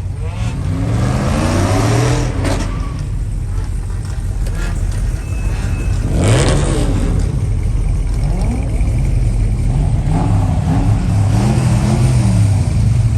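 Muscle car engine revving repeatedly over a steady low exhaust rumble: a climb near the start, one sharp rev spike about six seconds in, then several quick rises and falls near the end.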